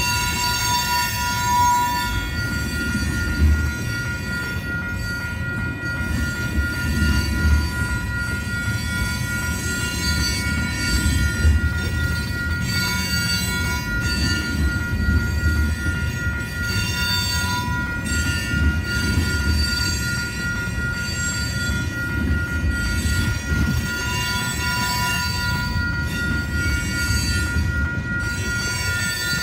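Loaded tank cars of a freight train rolling past, wheels rumbling and thumping on the rails with intermittent high flange squeal. A level-crossing bell rings steadily throughout.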